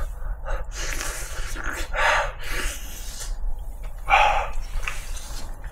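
A man eating a hot stewed pork rib: short puffs of breath through the mouth with slurping and chewing, in several brief bursts, the strongest about two and four seconds in.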